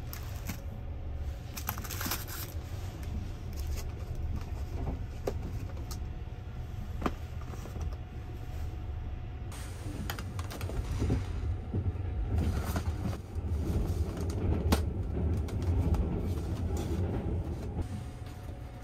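Sleeper train running with a steady low rumble through the compartment, while a paper-and-plastic bento box is handled and opened, with scattered clicks and rustling that grow busier in the second half.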